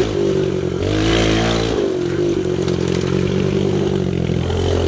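Small pit bike engine running under throttle while being ridden. The revs rise at the start, fall off a little under two seconds in, then hold steady.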